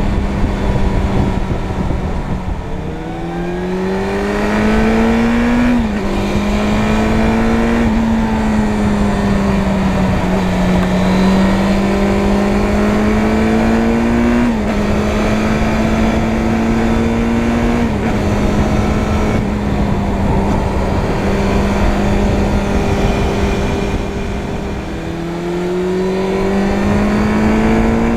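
Suzuki Bandit 600 N's inline-four engine under way, pulling up through the gears: the pitch climbs and then drops sharply at each of about four upshifts. It eases off near the end and climbs again. A steady low rush of wind noise sits under it.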